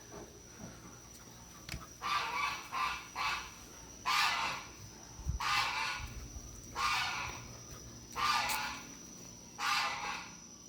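Farm fowl calling over and over: a few quick calls about two seconds in, then one call roughly every second and a half.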